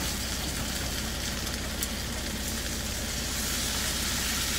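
Diced potatoes and onions frying in canola oil in a skillet, a steady sizzle, while a spatula stirs them; the potatoes are browning golden after the boiling water has cooked off.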